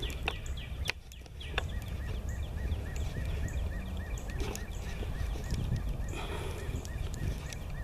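Outdoor ambience: a faint chirp repeating steadily about four times a second over a low rumble of wind on the microphone, with a few sharp clicks in the first two seconds.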